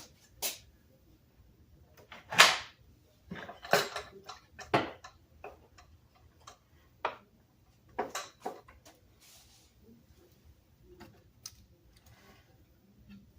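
Irregular sharp clicks and knocks, spaced roughly a second apart, with the loudest a couple of seconds in.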